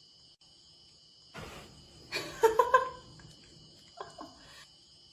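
Crickets chirping steadily and high, with a brief rustle about a second and a half in, then a cluster of short pitched animal calls in the middle and two more near the end.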